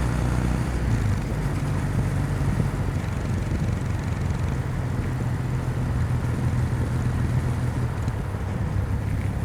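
Kawasaki W800's air-cooled parallel-twin engine running steadily under way, its exhaust note holding an even pitch, with road and wind noise.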